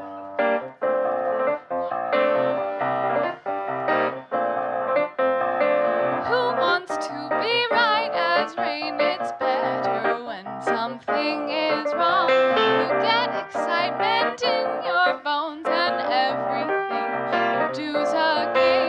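Piano playing repeated chords as an introduction, then a woman's singing voice comes in about six seconds in over the piano accompaniment.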